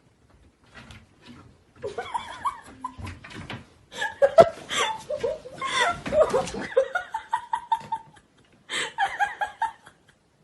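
A person laughing in bursts, with chuckles.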